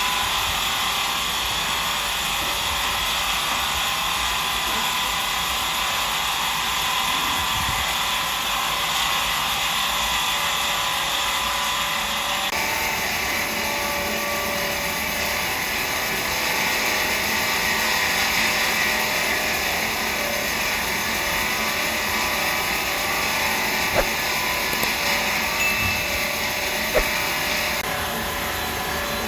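Sawmill machinery running steadily, a loud even mechanical hum and hiss whose tone shifts abruptly about twelve seconds in, with two short sharp knocks near the end.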